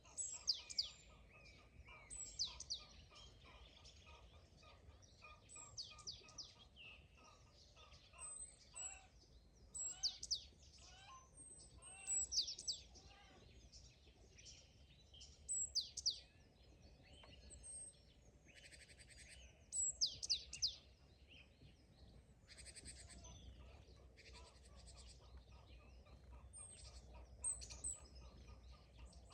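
Several songbirds singing. One repeats a short high phrase that slides downward, about every two seconds, while others give quick lower trills and a couple of buzzy calls, over a faint steady low rumble.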